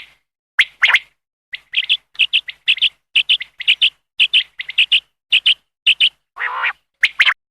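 Common quail calling: a rapid series of short, sharp, high notes, mostly in pairs at about two pairs a second. About six seconds in comes one longer, lower note.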